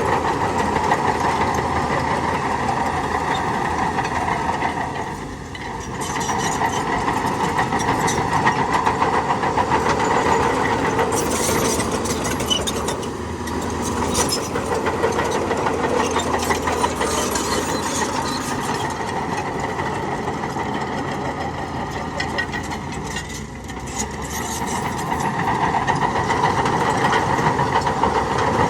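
Heavy diesel engine of earthmoving machinery running under load with a steady drone, briefly easing off twice, about a fifth of the way in and again about four fifths in.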